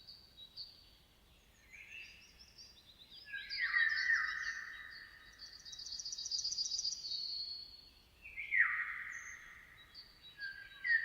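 Songbirds singing in separate phrases a few seconds apart, each made of quick downward-sliding whistles and fast high trills.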